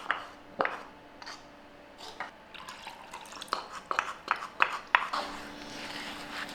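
Kitchen work sounds: scattered sharp clinks and knocks of utensils and dishes, then from about five seconds in a steadier hiss like water running from a tap.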